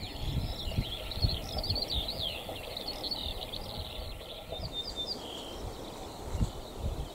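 Several songbirds singing, a dense run of quick chirps and trills that thins out after about five seconds, over an irregular low rumble whose strongest peaks are the loudest moments.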